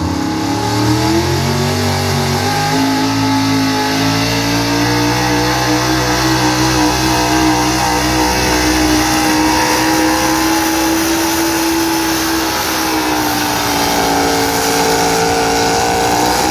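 Gasoline street-class pickup truck engine at full throttle during a truck pull run against a sled. The revs climb over the first few seconds and hold high, sag briefly about thirteen seconds in, then climb again near the end.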